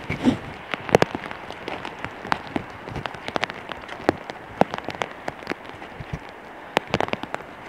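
Rain hitting close to the microphone in irregular sharp ticks over a steady hiss, with the footsteps of someone walking on a wet, mossy path.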